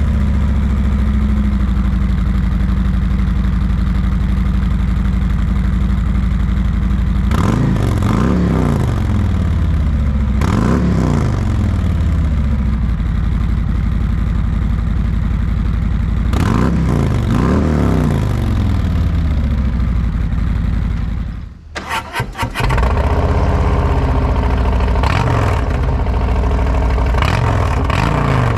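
Harley-Davidson Road Glide's V-twin engine idling, blipped up and falling back three times. After a short break it idles again and revs twice more.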